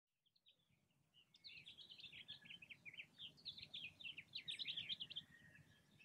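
Songbirds singing: a fast, busy run of short chirping notes over a faint low background rumble, tailing off near the end.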